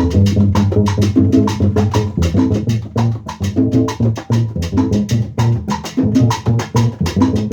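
A band playing Cuban-style dance music: a steady, fast beat of sharp wood-block-like clicks and drums over a repeating bass line and repeating chords.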